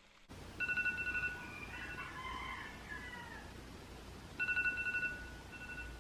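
A telephone ringing twice, about four seconds apart, each ring a warbling two-tone burst, with faint rising and falling chirps between the rings.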